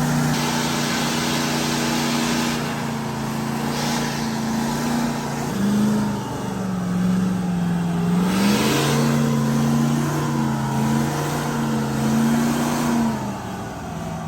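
A truck engine held at high revs during a burnout, with the tyres spinning. The revs sag for a couple of seconds about halfway through, climb back, and fall off near the end.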